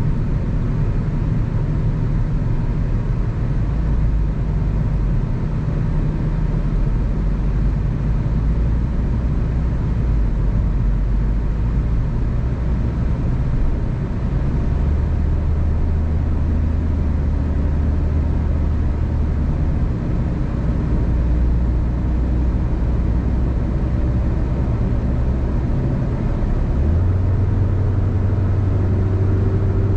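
A car driving at freeway speed: steady tyre and road noise with a low engine hum. The engine tone steps up near the end and a faint whine rises slowly as the car gathers speed.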